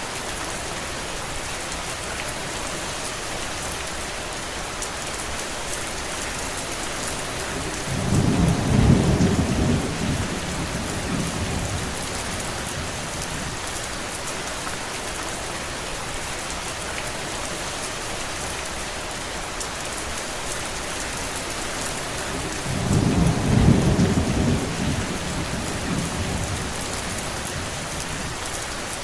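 Steady rain, a dense even hiss. Two deep rumbles, each lasting about three seconds, come about eight seconds in and again some fifteen seconds later.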